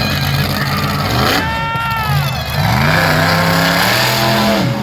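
Monster truck engines revving: a steady engine note that climbs in pitch about two and a half seconds in, holds, and drops back near the end, with quick rise-and-fall throttle blips higher up earlier on.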